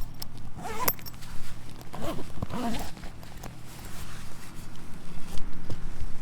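A zipper being pulled, in two goes: about a second in, and again around two to three seconds in.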